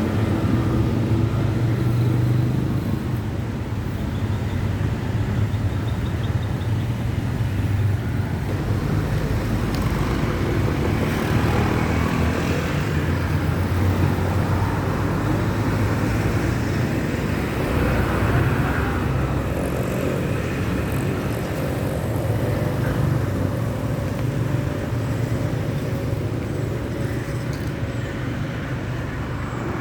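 Steady low rumble of road traffic, with no sudden events standing out.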